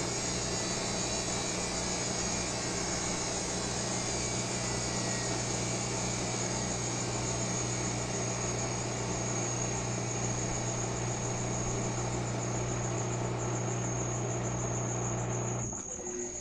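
Washing machine spinning at high speed: a steady motor hum with a high whine over the rush of the drum, dropping away sharply near the end.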